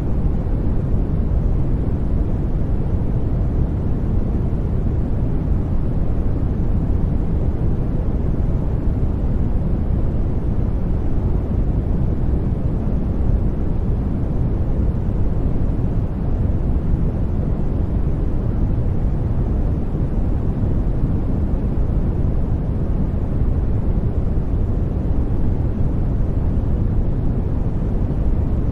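Steady sleep-aid white noise: an even, deep rushing hiss, strongest in the low end and muffled in the highs, with no change.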